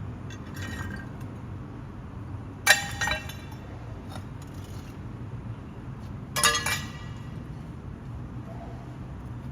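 A heavy truck's engine running with a steady low rumble, cut twice by a sharp, ringing metallic clank, about three and a half seconds apart.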